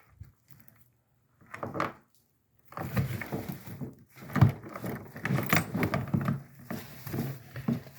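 Wet laundry being handled and pulled out of the plastic wash tub of a twin-tub portable washer: irregular rustling with bumps and knocks against the tub, starting about three seconds in.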